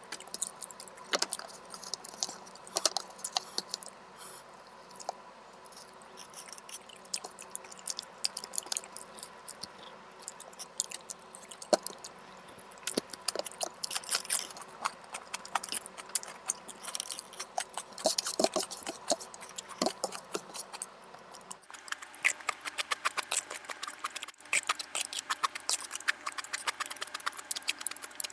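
A person chewing food close to the microphone, a run of irregular mouth clicks and smacks.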